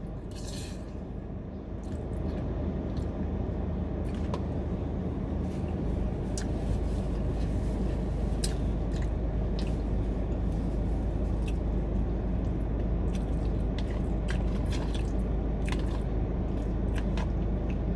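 Chewing and mouth sounds of someone eating spaghetti, with scattered short clicks from the fork and plastic container, over a steady low rumble.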